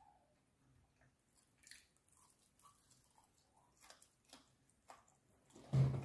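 Close-miked chewing of fried chicken: faint wet mouth clicks and smacks, with a louder, low mouth sound near the end.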